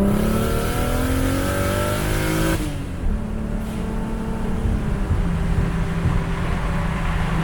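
Single-turbo BMW N54 inline-six pulling hard through second gear, its engine note climbing steadily with a rushing turbo hiss. About two and a half seconds in, the driver lets off and the engine settles to a steady, lower drone.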